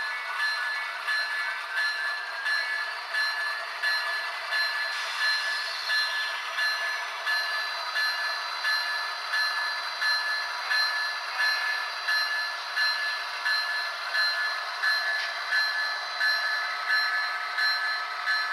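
HO scale model diesel locomotive's sound-decoder bell ringing steadily, about one and a half strokes a second, over the locomotive's engine sound.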